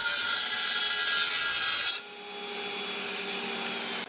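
Power tool working hardwood: a loud, steady hiss with a faint motor whine that drops sharply about two seconds in, followed by a quieter high hiss that stops abruptly.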